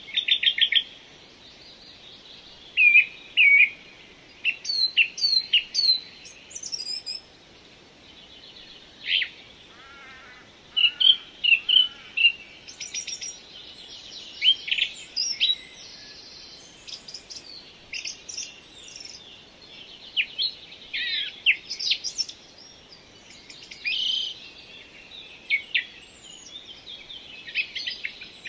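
Birdsong: short, quick chirps and trills in bursts every second or two, over a faint steady hiss.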